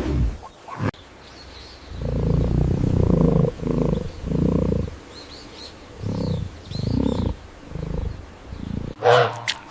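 A large animal giving a series of deep grunting calls: one long loud call, then about seven shorter ones that grow fainter. Faint bird chirps sound in the background partway through.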